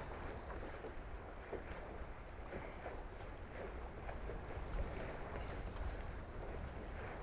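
Wind rumbling on the microphone over water rushing past and splashing against the hulls of a Tornado catamaran sailing at speed.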